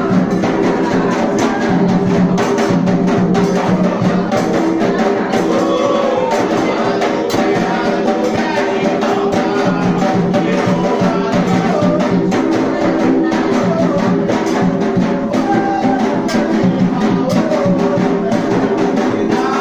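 Afro-Brazilian ritual music for Xangô: continuous hand-drum playing with sharp knocking percussion, and voices chanting over it.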